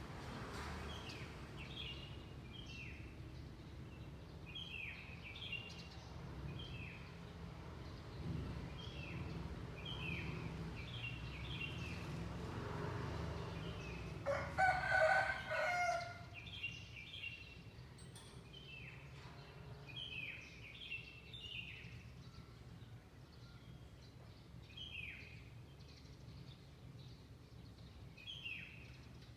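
Small birds give short, repeated, downward-sliding chirps throughout. About halfway through, a rooster crows once, the loudest sound, lasting about a second and a half. A low, steady background rumble runs underneath.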